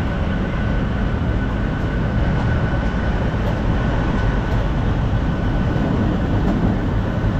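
MEMU electric train running at speed, heard from inside the coach: a steady, loud rumble of wheels on the rails, with a thin steady high tone above it.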